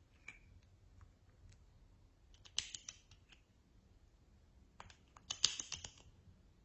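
Slime being worked by hand, giving two short bursts of crackly clicking and popping, one a couple of seconds in and the other near the end, with a few faint clicks between.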